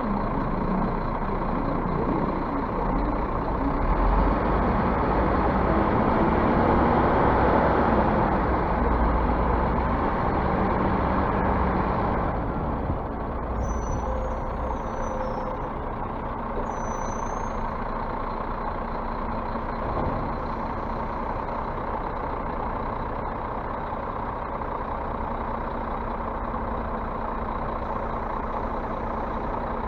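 Scania bus engine running under way, its note rising and falling, then easing off about twelve seconds in and running steadily after that.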